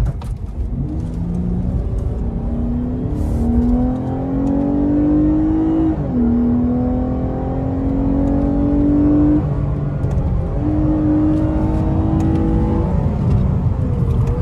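Lexus IS 350 F Sport's 3.5-litre V6 accelerating hard, heard inside the cabin. The engine note climbs in pitch, drops at an upshift about six seconds in, climbs again, eases off briefly, then pulls again before dropping near the end.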